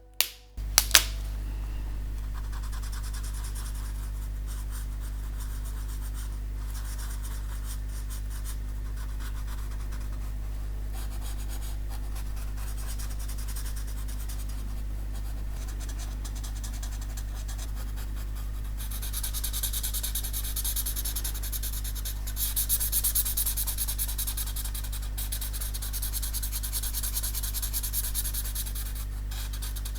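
Ink pen scratching across paper in steady drawing strokes, busier and louder from about two-thirds of the way in, over a steady low hum. There is a sharp click just after the start.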